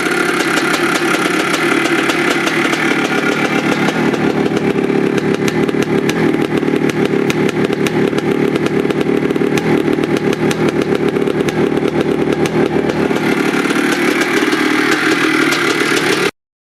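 1982 Maico 490's two-stroke single-cylinder engine running steadily, its rapid firing pulses a little stronger in the middle. The sound stops abruptly near the end.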